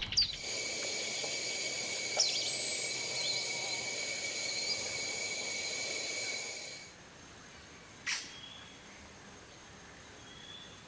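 Forest ambience: a steady, high-pitched multi-tone drone with a few bird chirps over it. The drone stops suddenly about seven seconds in, leaving a fainter thin high tone, a single quick descending bird call and a couple of soft chirps.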